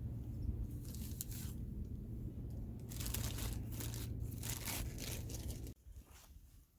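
Crinkling, tearing handling noise in irregular clusters over a steady low rumble that cuts off suddenly near the end.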